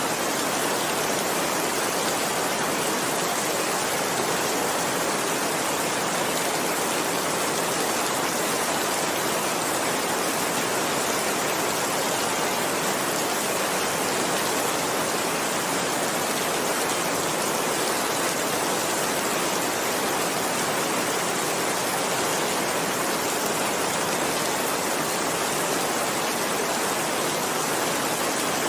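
Steady heavy rain, an even, unbroken hiss of downpour.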